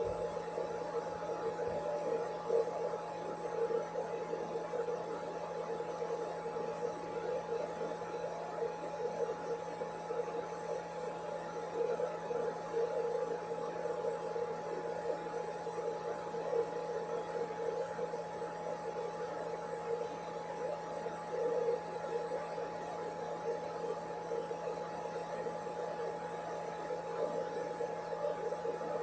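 Blow dryer running steadily with an unchanging hum and rush of air.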